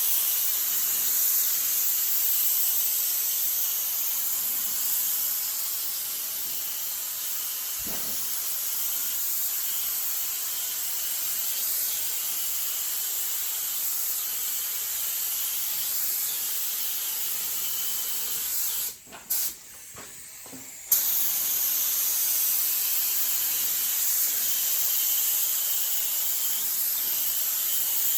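3M AccuSpray HVLP spray gun with a 1.8 tip hissing steadily as primer is sprayed, cutting out briefly twice about two-thirds of the way through before starting again.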